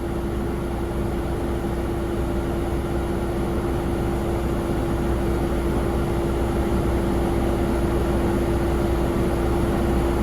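Steady jet aircraft engine noise, a constant hum over a broad rush, growing slowly louder.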